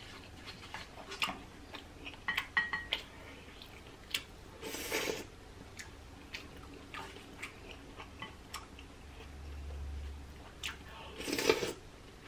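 A person eating fried squid and shrimp: chewing with scattered small mouth and bowl clicks, and two short bursts of hiss, about 5 seconds in and near the end.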